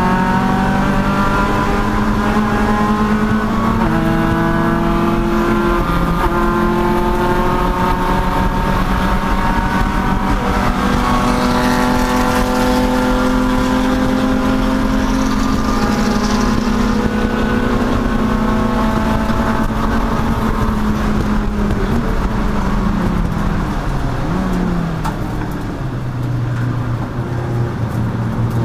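Race car engine at full throttle on track. It shifts up twice in the first few seconds, holds a long high pull, then drops down through the gears, with a short throttle blip, as the car slows near the end.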